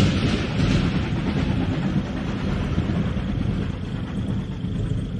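Low, steady rumble of a train rolling along the tracks, slowly fading away.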